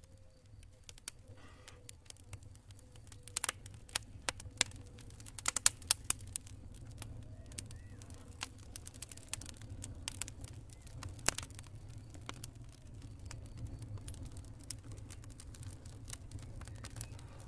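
Campfire crackling, with sharp, irregular pops and snaps over a steady low rumble of burning. The pops bunch together a few seconds in and come again singly later.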